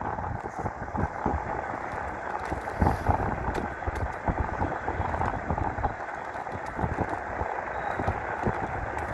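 Wind buffeting the microphone over the steady rumble of knobby tyres rolling on the road as an electric mountain bike is ridden, with irregular gusts and no clear motor whine.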